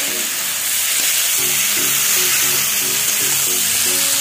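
Peas and mushrooms in masala sizzling as they fry in an oiled kadai, stirred with a spatula, over light background music.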